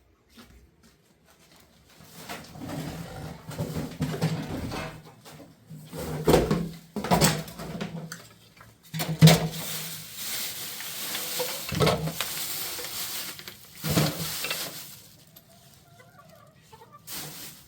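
Chickens clucking, amid scattered knocks and a stretch of hissing noise.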